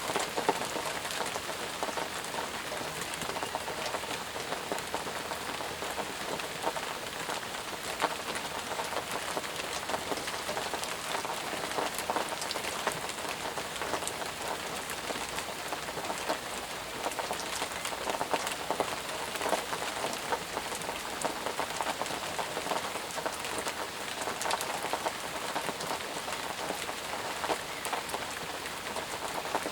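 Steady rain falling, a dense hiss with many close individual drops pattering and ticking on surfaces.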